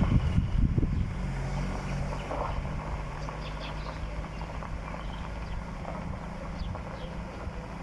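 A motor vehicle's engine running, loudest in the first second and then fading steadily, with faint bird chirps above it.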